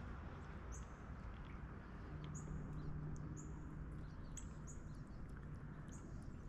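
Faint, short, very high bird chirps repeating every half second or so over a steady outdoor rumble, with a low steady hum joining about two seconds in.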